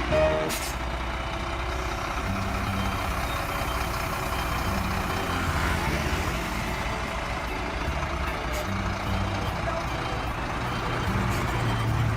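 Heavy diesel truck engine running steadily, with a low hum and a broad rushing noise over it.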